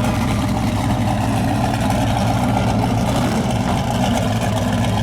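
Loud drag-race car engines idling steadily, with no revving.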